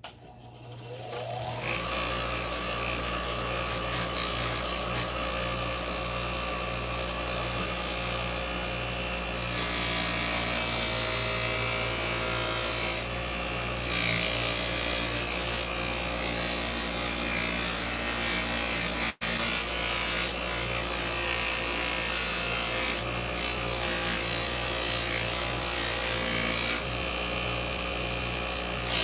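Bench polishing wheel's electric motor spinning up to speed, then running steadily with a low hum and a dense hissing rub as a silver piece is buffed against the compound-loaded wheel. The sound cuts out for an instant about two-thirds of the way through.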